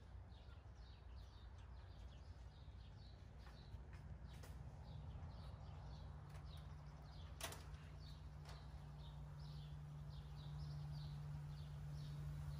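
Faint outdoor ambience: a bird chirping over and over, short high calls about two a second, over a low steady hum that comes in about four seconds in and slowly grows louder. A single sharp click sounds about seven and a half seconds in.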